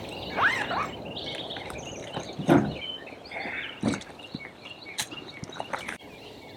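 Outdoor ambience with birds chirping and a few sharp knocks, the loudest about two and a half seconds in; it quietens near the end.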